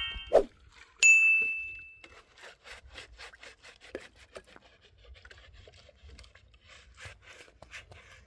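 A single bright ding about a second in, ringing away over about a second, then quiet rhythmic rasping strokes, about three a second, of something being rubbed or scraped back and forth.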